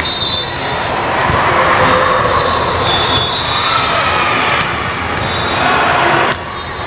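A volleyball being struck a few times, sharp hits over a steady din of crowd voices and shouting.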